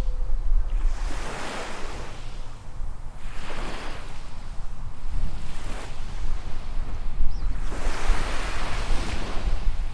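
Small waves breaking and washing up a sandy beach, in several surges: about a second in, near four seconds, and loudest near eight seconds.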